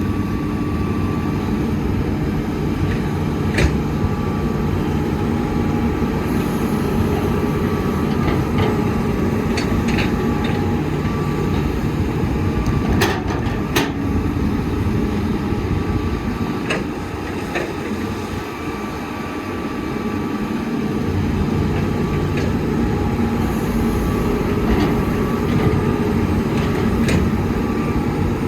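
Heavy diesel excavator engine running steadily, with scattered sharp metallic knocks and clanks. The low rumble eases for a few seconds a little past halfway, then comes back.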